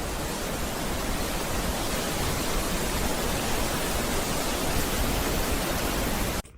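Steady, even rushing hiss that cuts off suddenly near the end.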